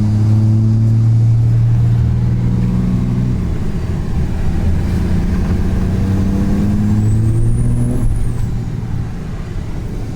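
Truck engine accelerating through the gears. Its pitch climbs slowly, drops at a shift about three and a half seconds in, climbs again and drops at a second shift near eight seconds, with a thin high whistle rising and then falling around that second shift.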